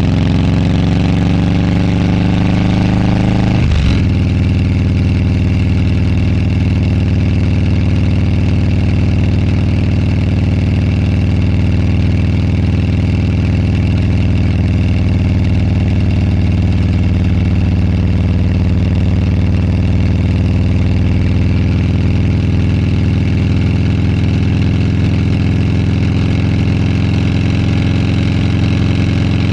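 Motorcycle engine pulling with rising pitch, dropping sharply as it shifts up about four seconds in, then running at a steady cruising speed.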